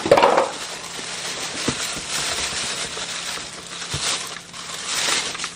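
Packing material in a cardboard box rustling and crinkling as it is handled and pulled out, with a few light knocks.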